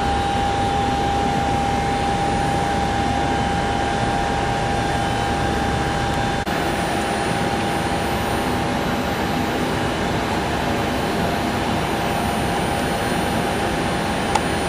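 Steady rushing noise of a running aircraft turbine, with a high whine that drops out abruptly about six and a half seconds in.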